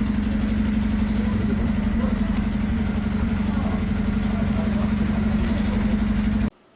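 Small diesel locomotive of a forest railway idling with a steady, even throb. It stops abruptly near the end.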